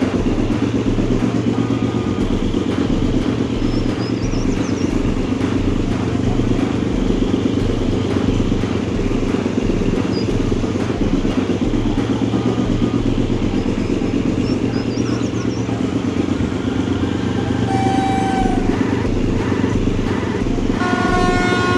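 Indian train running, with a steady heavy rumble and fast rattling clatter. A pitched tone sounds briefly about eighteen seconds in and again near the end.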